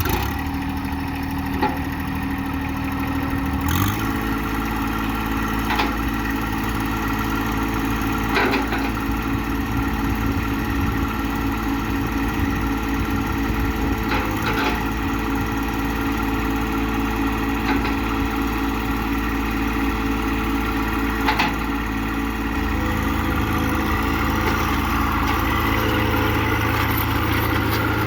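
John Deere 1025R compact tractor's three-cylinder diesel engine running steadily, its note stepping up about four seconds in. A few short clicks sound over it.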